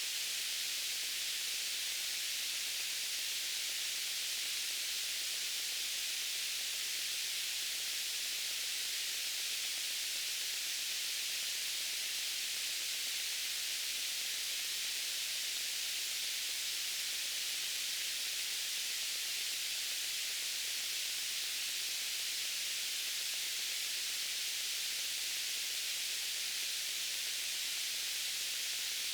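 Steady white-noise hiss, even and unchanging, with most of its energy in the high range.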